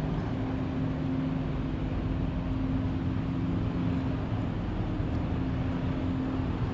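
Classic BSA motorcycle engine running steadily with a constant low hum that holds the same pitch throughout.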